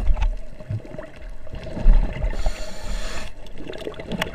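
Underwater sound on a scuba dive: gurgling and bubbling in irregular swells, with scattered sharp clicks over a steady low hum.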